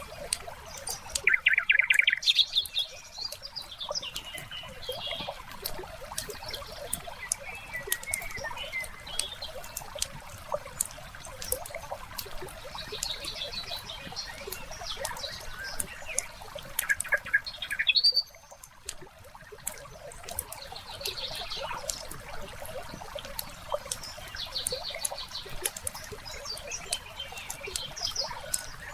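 Wood fire crackling with many small pops, while songbirds chirp and trill in short bursts, loudest about two seconds in and again a little past the middle.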